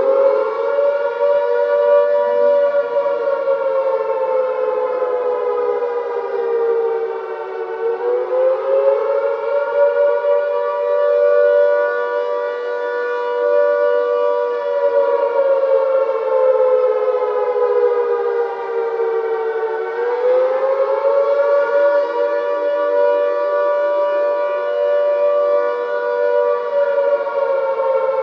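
Air-raid siren wailing in slow cycles: its pitch climbs quickly, then sinks gradually over about ten seconds before climbing again, three times in all.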